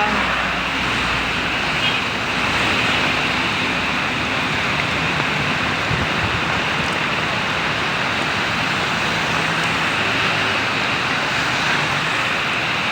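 Heavy rain driven by strong wind makes a steady, loud hiss, with road traffic running through it.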